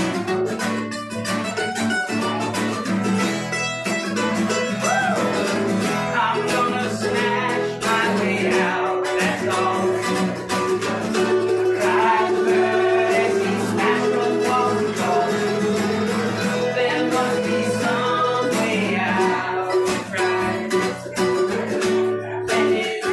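Acoustic band music: plucked guitar playing with a held, sliding melody line above it, in an instrumental stretch of the song.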